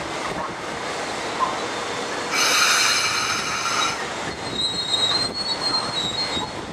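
Metro-North electric multiple-unit commuter train rolling along the platform with a steady rumble of wheels on rail. About two seconds in, a loud, high-pitched metallic squeal rings for well over a second, followed by thinner, higher squealing tones.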